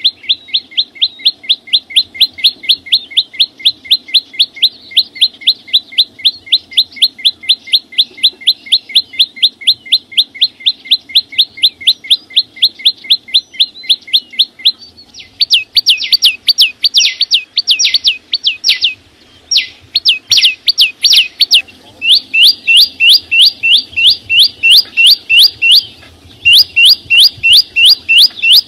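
A small songbird, the one called chim sâu xanh in Vietnamese, singing a long, fast series of identical sharp notes that each sweep downward, about four a second. About halfway through, the notes turn louder and slightly higher and come in quick runs broken by short pauses.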